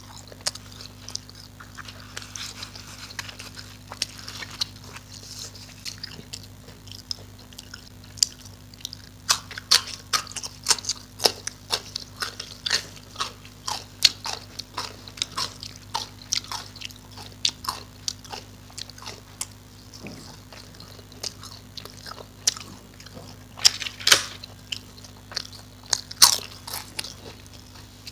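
Close-miked chewing and biting of a person eating by hand, with wet mouth smacks and clicks coming at an irregular pace.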